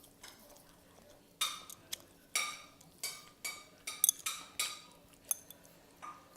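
Eating utensil scraping and clinking against a bowl while stirring noodles, in a run of short strokes about two a second with a sharp clink about four seconds in.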